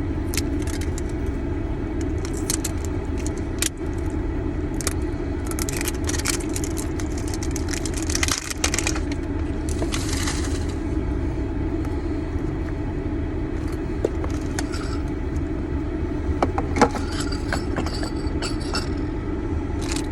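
A metal Pokéball-shaped tin and the card packs inside being handled and opened: scattered clicks, clinks and scrapes, with a brief rustle about halfway through. Under it is the steady low hum of the car.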